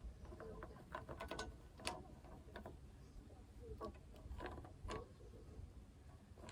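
Faint scattered clicks and light knocks of tools and material being handled, several in quick succession, then a few more.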